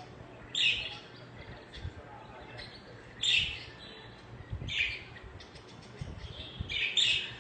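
Budgerigars chirping in short loud bursts, four in all, a second or two apart.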